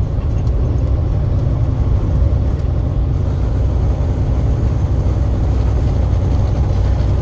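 Truck on the move: a steady, loud low rumble of engine and road noise.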